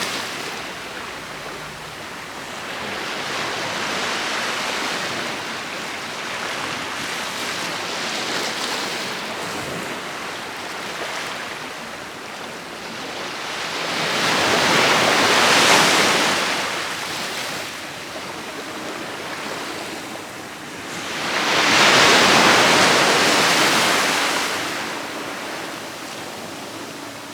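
Ocean waves breaking and washing up the beach in slow, rising and falling surges. Two louder breakers come, one a little past halfway and another about six seconds later.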